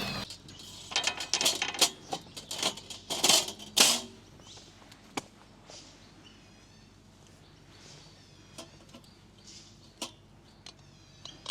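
Camping gear being handled: a quick run of rustling, clattering clicks and knocks for about four seconds, then a few isolated clicks. Faint bird chirps are heard in the background.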